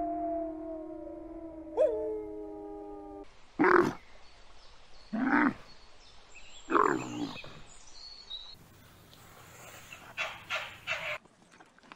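A grey wolf howling one long, steady note with a brief upward flick about two seconds in. Then a dromedary camel grunts three times, about a second and a half apart. Near the end comes a run of short, quick calls from a fennec fox.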